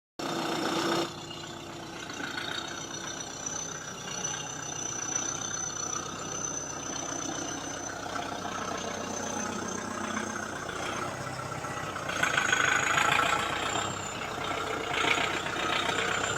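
Kubota tractor's diesel engine idling steadily, louder for a stretch about twelve seconds in.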